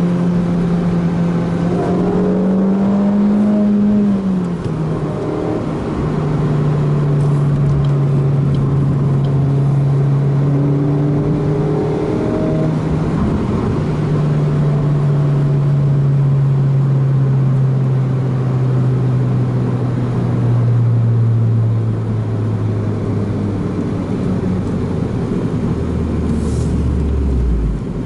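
Suzuki Swift Sport ZC32S's 1.6-litre four-cylinder engine sounding through a Rosso Modello aftermarket muffler. The exhaust note climbs briefly a few seconds in, then holds steady and slowly falls in pitch for about twenty seconds, dropping lower near the end.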